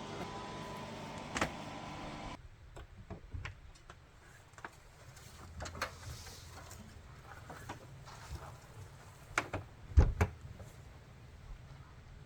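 A low steady hum with one sharp click, which stops abruptly about two seconds in. Then scattered clicks and knocks follow, the loudest a few sharp knocks with a low thud near the end.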